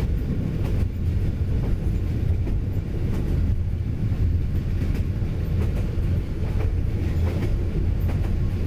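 Train running on the rails: a steady low rumble with faint scattered clicks.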